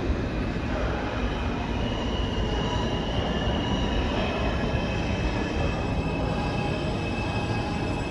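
New York City subway train moving along the track: a steady rumble of steel wheels on rail, with a thin, high wheel squeal coming in about two seconds in.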